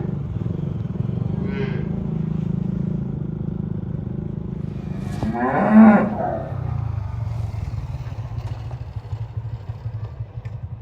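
A cow mooing: one loud, drawn-out moo about five and a half seconds in, and a fainter short call near the start, over a steady low rumble.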